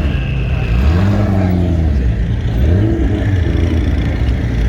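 Car engine running with a steady low rumble, revved in short blips a few times, its pitch rising and falling with each.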